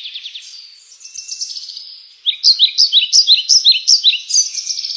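A bird singing: fast high twittering, then from about two seconds in a loud run of repeated sharp downward-sweeping notes, about four a second.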